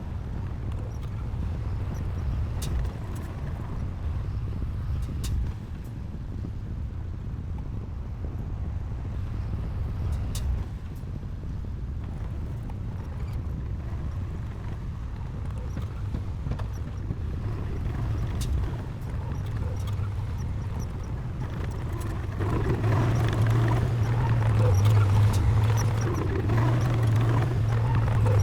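Diesel engine of heavy earthmoving machinery running steadily, with a few sharp clicks. About 22 seconds in it gets louder and its low hum strengthens, as the engine works harder or the machine comes closer.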